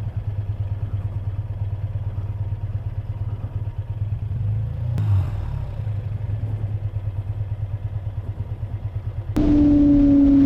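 Motorcycle engine running steadily with a fast, even pulsing rumble. Near the end it cuts suddenly to a louder sound with a steady, slightly falling hum.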